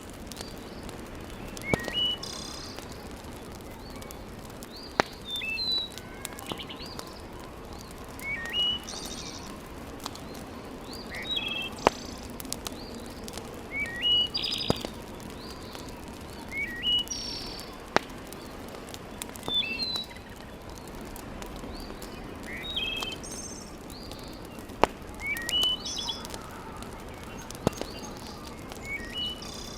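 Small birds chirping in short repeated phrases every two to three seconds over a steady hiss, with a few sharp pops from a wood fire.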